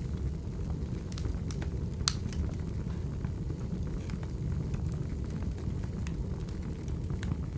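Wood fire crackling: a steady low rumble of flames with scattered sharp pops, the loudest about two seconds in.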